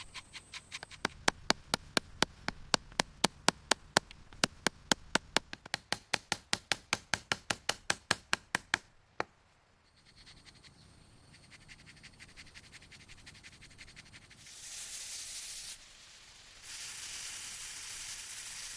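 Wood being worked by hand: rapid, regular sharp taps, about four a second, for the first nine seconds or so, then stop. After a quieter stretch, two spells of hissing rubbing on wood near the end, as in sanding.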